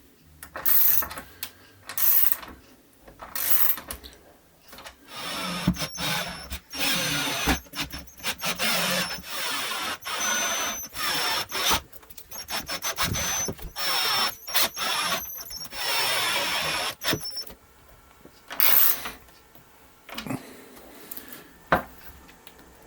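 Power drill running in repeated bursts, a few short ones and then longer runs with a steady high whine, stopping and starting between them.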